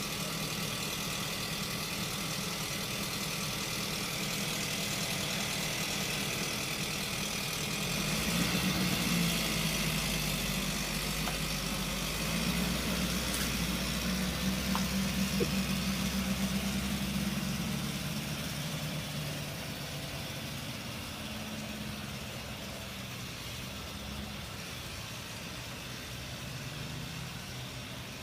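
A vehicle engine running steadily. It grows louder and deeper for about ten seconds in the middle, then eases back to a quieter run.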